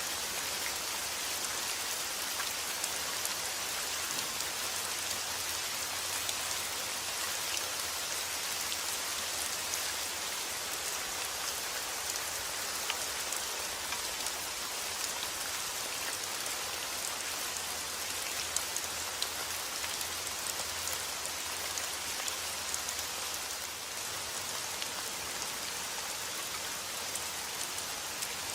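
Steady rain falling, with individual drops ticking sharply on a surface through the even hiss.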